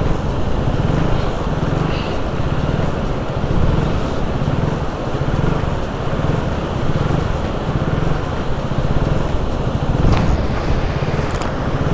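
Vehicle engine running with a pulsing low rumble under a steady rushing noise, as a car works its way through a stream crossing.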